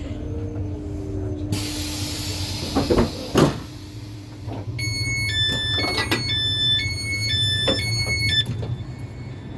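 Great Western Railway Class 802 train at a station stop: a hiss of air with two knocks from the doors, then an alternating electronic door-warning beep for about three and a half seconds, over the train's steady low hum.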